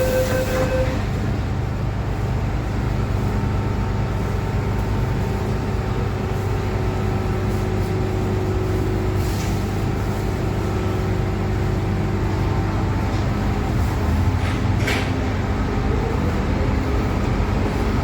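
MTR M-Train electric metro train running between stations: a steady rumble with a hum of level tones, a higher tone cutting off just under a second in, and a sharp click about fifteen seconds in.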